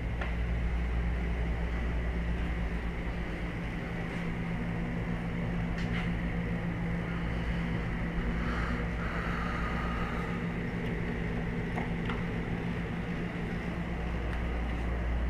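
Steady low mechanical hum of a running vehicle, with a few faint clicks and a brief higher tone about nine seconds in.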